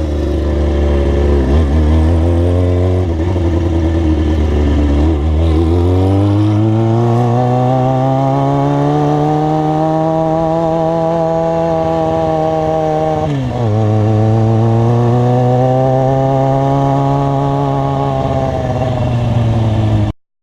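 Motorcycle engine running as the bike rides along, its pitch climbing as it accelerates, dropping sharply about thirteen seconds in, then pulling steadily again. The sound cuts off abruptly near the end.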